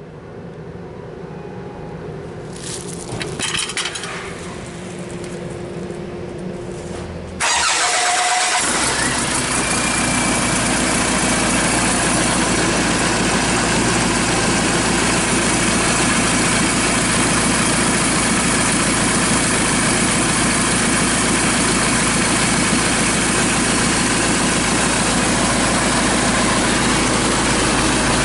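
Kia Sorento D4CB 2.5-litre four-cylinder common-rail turbodiesel engine, run outside the car. After a few seconds of quieter clicking and rattling, it starts suddenly about seven seconds in and settles into a steady, loud idle.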